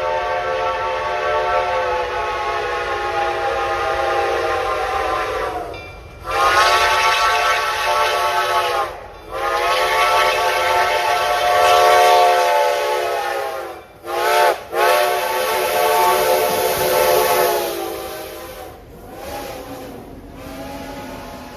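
Steam whistle of Reading 4-8-4 steam locomotive No. 2102 blowing a series of long blasts. A long blast is followed by the long-long-short-long grade-crossing signal, then fainter blasts near the end.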